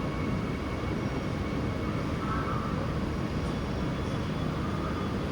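Seoul Subway Line 9 train at the underground Express Bus Terminal Station platform, giving a steady low rumble with faint high whining tones.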